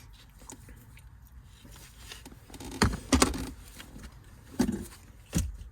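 A few short clicks and knocks, about four in the second half, from hands handling a car's wiring harness and its plastic parts under the steering column.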